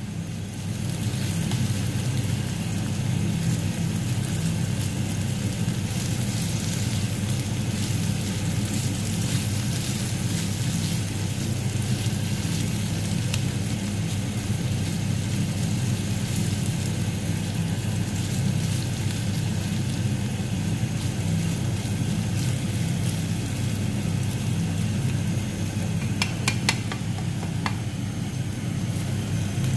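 Chicken tocino sizzling as it fries in a nonstick pan, a steady hiss over a steady low hum. A few light clicks come near the end.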